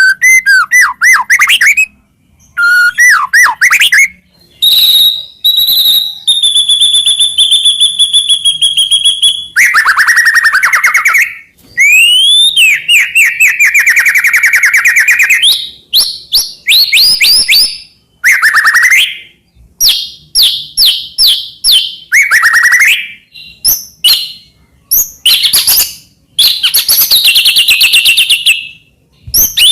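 White-rumped shama singing loudly in a fast, varied song. It runs through rapid trills of repeated notes, sweeping whistles and one long held whistle, in phrases a second or two long with short pauses between.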